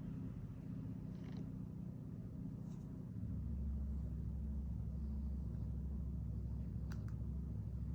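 Electric pet hair clippers running with a steady low buzz, which gets louder and deeper about three seconds in.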